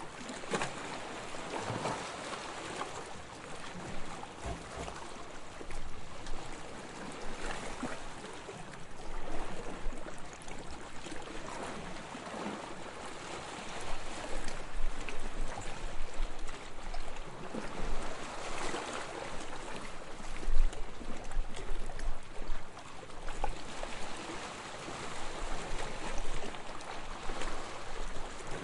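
Soft waves lapping on a sandy shore, small wavelets washing in and draining back in gentle swells every couple of seconds, with one slightly stronger splash about twenty seconds in.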